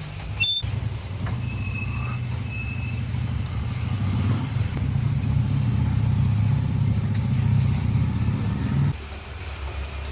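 An engine running steadily with a low rumble that grows louder partway through, then cuts off abruptly about nine seconds in.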